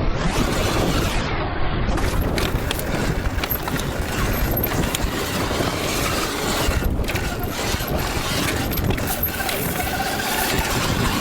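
Surron Light Bee electric dirt bike ridden fast over a dirt track: a steady rush of wind and rumble, with tyres on dirt and stones and scattered knocks and rattles.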